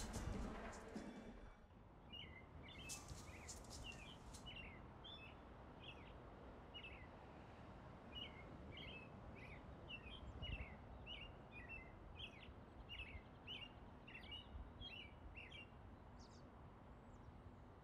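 Faint birdsong: a small bird repeating short, high chirps about twice a second over a low background hiss, stopping a couple of seconds before the end.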